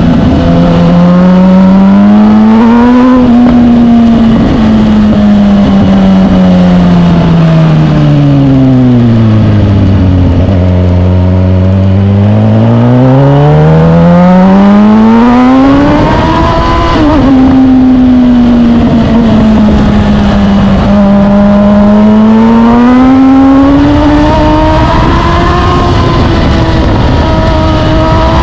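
Suzuki GSX-R1000 K8's inline-four engine running on the move. Its pitch falls steadily to a low point about a third of the way in as the bike slows, climbs again as it accelerates, then dips and rises once more in the second half.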